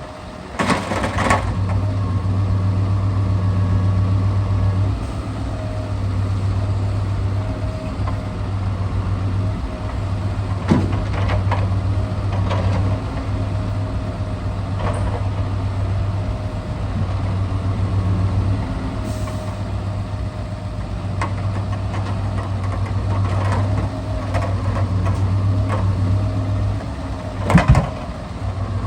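Scania R650's V8 diesel engine running steadily, its hum swelling and easing every few seconds as the timber crane works. Now and then there are knocks of timber being loaded, the loudest near the end.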